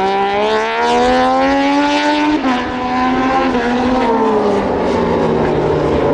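Moto2 race bikes' Triumph 765 cc three-cylinder engines at high revs passing the grandstand. The pitch climbs for about two and a half seconds, drops suddenly, sinks slowly, then climbs again near the end.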